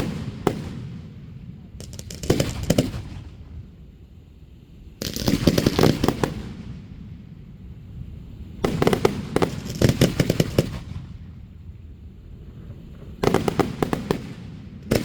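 Fireworks going off in clusters of rapid bangs and crackles, a new cluster about every three seconds, each one trailing off in an echo.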